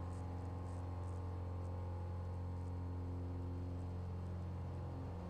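The 1968 Cessna 182L Skylane's O-470 engine (Northpoint XP470 conversion) and propeller running steadily at climb power. It is a constant low drone with a row of even, unchanging tones above it.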